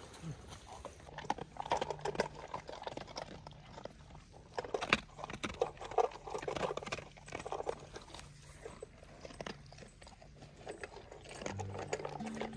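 German Shepherd dogs chewing and crunching food they have just been given: a run of irregular wet crunches and clicks.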